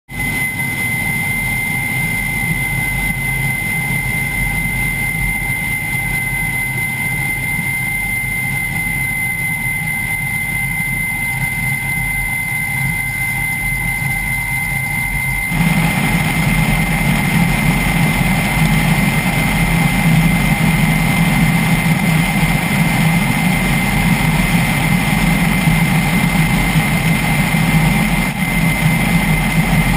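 Kamov Ka-32T helicopter's turbine engines and coaxial rotors running steadily, with a steady high whine over the engine noise. About halfway through, the sound suddenly gets louder and fuller.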